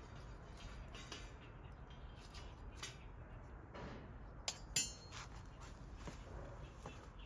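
Small metal pieces being handled and clinking, with scattered light knocks and one sharp ringing clink about five seconds in.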